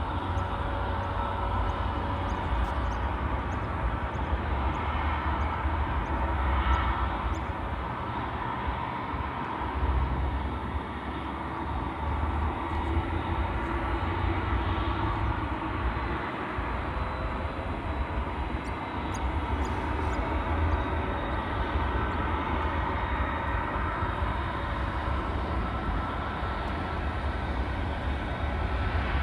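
Jet airliner engines running steadily in the distance, with a faint steady whine over the broad noise, and wind rumbling on the microphone.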